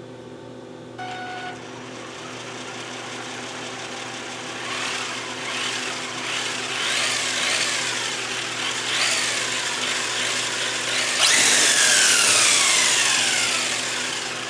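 Small electric motor whirring in repeated surges, each falling in pitch as it winds down. It grows louder over several seconds, with a sudden loud surge about eleven seconds in.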